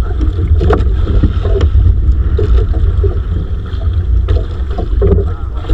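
Wind buffeting the microphone on an open fishing boat, a loud low rumble, with scattered knocks and clatter from the boat.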